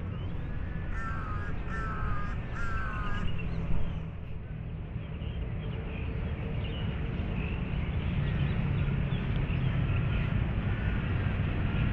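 A crow cawing, three harsh caws in quick succession about a second in and fainter caws near the end, over a steady low rumble.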